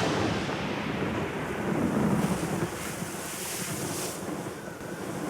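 Rushing, rumbling noise like wind or surging water, swelling about two seconds in and then easing.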